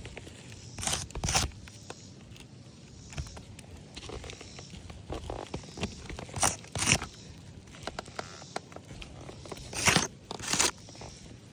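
Gritty scraping and crunching on a roof surface, in three pairs of short strokes about a second and a half, five seconds and nine seconds apart from the start.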